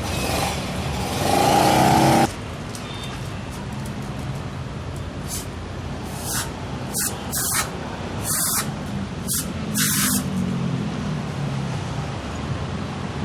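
A Datsun GO+ engine idling steadily while cleaner is sprayed in short hissing bursts for an engine carbon clean. A loud hiss lasts about two seconds and cuts off suddenly. Five short hisses follow between about six and ten seconds in.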